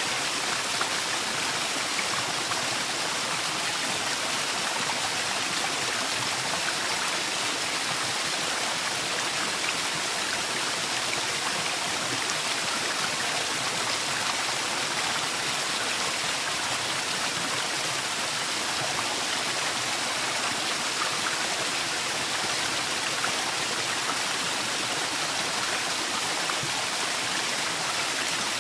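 Waterfall rushing steadily, a continuous hiss of falling water.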